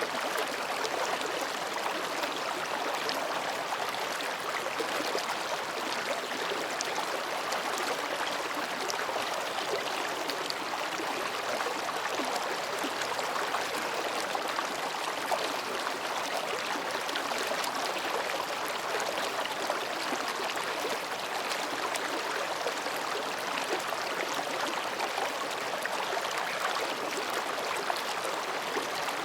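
Mountain stream flowing over and between rocks: a steady babbling of water that stays even throughout.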